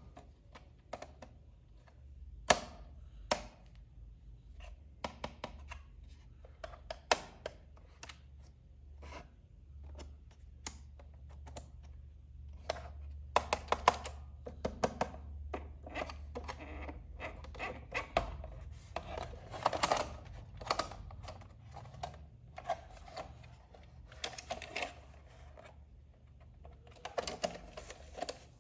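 Irregular clicks, taps and small knocks of hands handling hard plastic toy parts and packaging, coming in quicker clusters around the middle, over a faint low hum.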